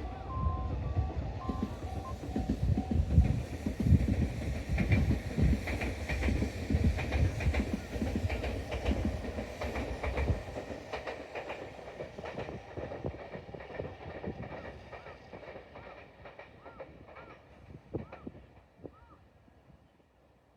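Tobu Isesaki Line train running past, its wheels clattering over rail joints, then fading away, with a few short wheel squeals near the end.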